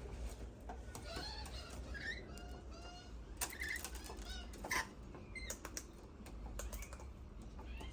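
Birds being fed, giving many short chirps and calls that slide up and down in pitch, with a run of sharp clicks or taps in the middle, the loudest about three and a half and five seconds in.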